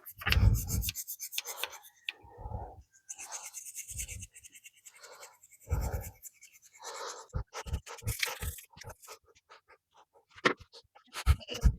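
A brush scrubbing rust-loosened metal engine parts in irregular strokes, with a burst of knocks and clatter from the parts being handled about two-thirds of the way through.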